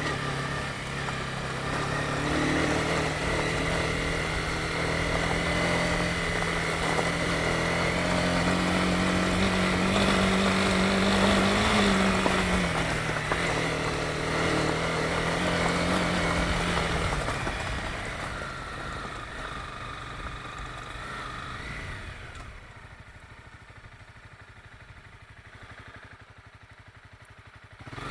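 Honda CB250R single-cylinder engine under way, its note slowly rising in pitch, then holding steady. About two-thirds of the way through it eases off and fades, and the sound stays much quieter until it comes back up at the very end.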